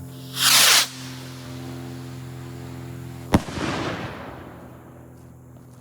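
Aerial firework rocket launching with a short whoosh, then about three seconds later a single sharp bang as its salute bursts overhead, with the report fading away afterward.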